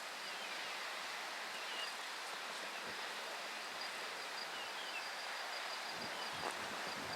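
Natural outdoor ambience: a steady, even hiss with faint short bird chirps scattered through it, and a fast run of high repeated notes in the middle.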